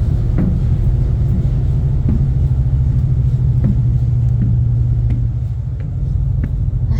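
Ferry's engines running underway in a steady low drone.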